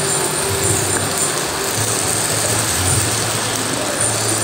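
Rain falling on a corrugated metal canopy roof, a steady even hiss, with a low hum underneath that comes and goes.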